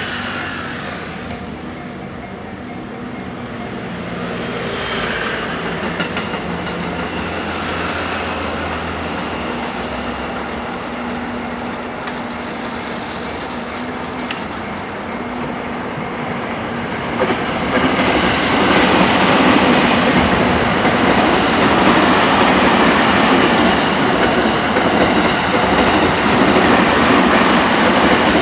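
Electric trains running through a multi-track level crossing, wheels on the rails. The sound steps up about 17 seconds in, when a train passes close by, and stays loud.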